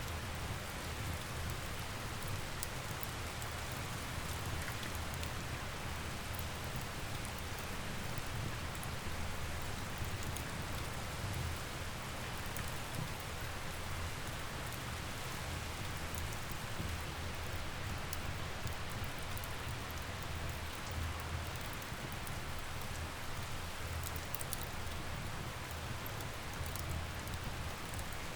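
Steady rain falling, with scattered small crackles and pops from a wood fire and a continuous low rumble underneath.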